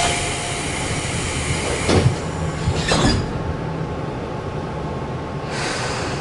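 Sound inside a Tobu 20050 series GTO-inverter electric train car: a sudden burst of air-like hiss that fades after about two seconds, two sharp knocks about two and three seconds in, and another hiss starting near the end, over a steady low rumble.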